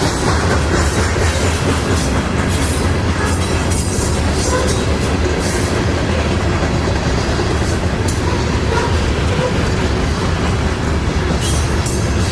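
Freight train rolling past: a steady, loud rumble of railcars with irregular clicking as the wheels pass over the rail joints.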